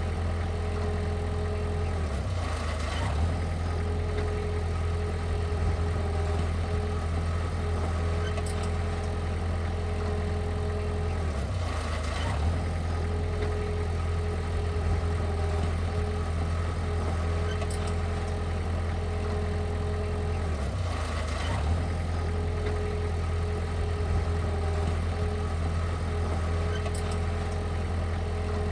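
Heavy diesel engine of earth-moving machinery running steadily, with a brief dip in pitch about every nine to ten seconds.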